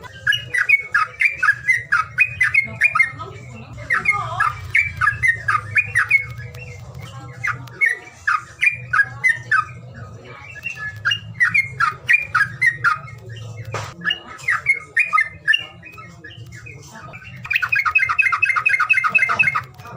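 Songbird calling in quick runs of sharp chirps, ending in a fast, even trill near the end, over a steady low hum.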